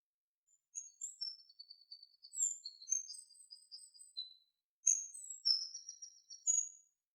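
A small songbird singing two phrases of high, thin, quickly changing notes and short trills, with a brief pause between them.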